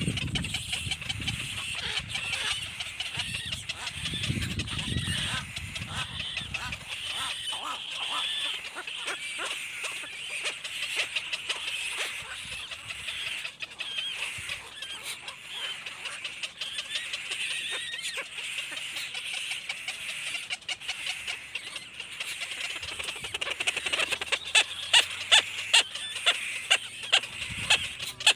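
Baby birds calling: a continuous high chirping, over a low rumble during the first several seconds. Near the end come a run of louder, sharp calls, about two a second.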